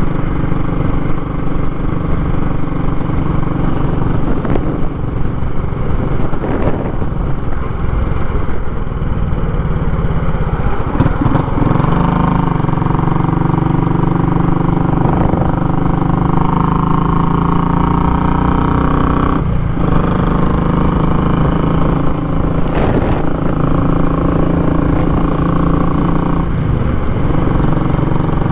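Royal Enfield Classic 500's single-cylinder engine running under way through a short, raw exhaust. The note varies at first, then holds a steady pitch after about twelve seconds, with a few brief breaks.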